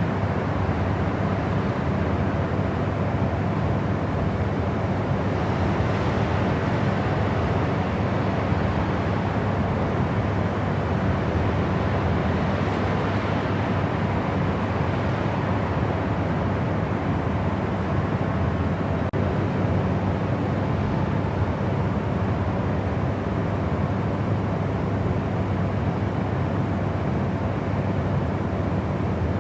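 Steady white-noise track: an even rushing hiss, heavier in the low end, with a faint steady hum running through it and no changes.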